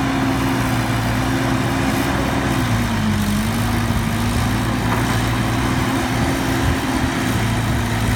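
Heavy diesel engine running steadily, its pitch dipping briefly about three seconds in, then holding slightly lower.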